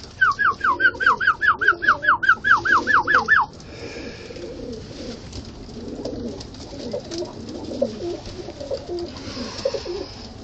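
Domestic pigeons in a coop cooing, a continuous low murmur of overlapping calls. For the first three seconds a louder, rapid series of about thirteen high chirping notes, about four a second, each sliding down in pitch, sits on top, then stops abruptly.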